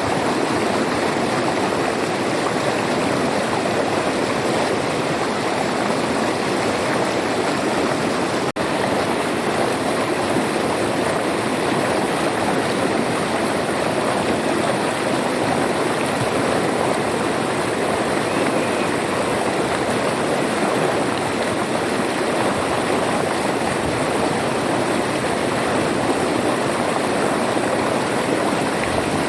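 River water flowing and rushing steadily, with one momentary break in the sound about eight and a half seconds in.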